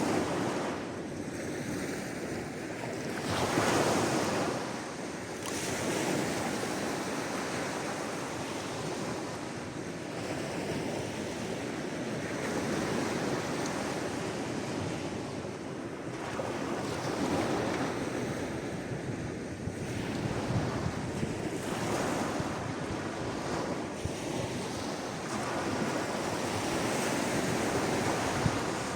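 Sea waves breaking and washing up the shore, a steady hiss of surf that swells every few seconds as each wave comes in.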